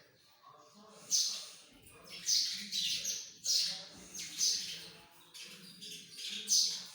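Birds chirping, a short high call that sweeps downward repeated about once a second.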